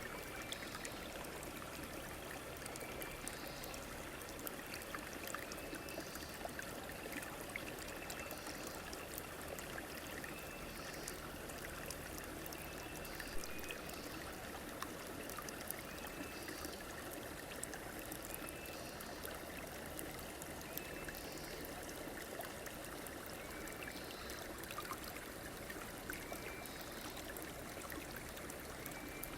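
River water running over stones, a steady rushing flow. A short, high call repeats every two to three seconds over it.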